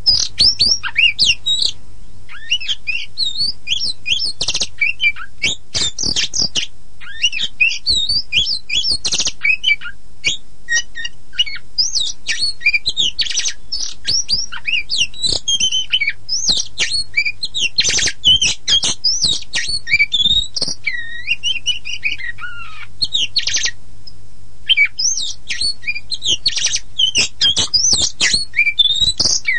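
Kacer poci (pied oriental magpie-robin) in continuous full song: a rapid, varied stream of whistled glides, chattering runs and harsh squawky notes, with a brief pause around three-quarters of the way through. A faint steady low hum lies underneath.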